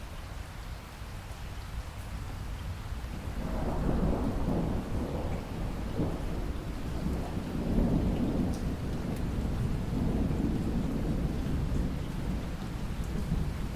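Steady rain falling, with a long roll of thunder that builds about three and a half seconds in and rumbles on in waves.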